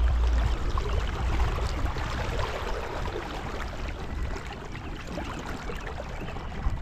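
Water and wind noise on a kayak-mounted camera: an even rushing hiss of water against the kayak hull, with a low wind rumble on the microphone that eases off during the first second.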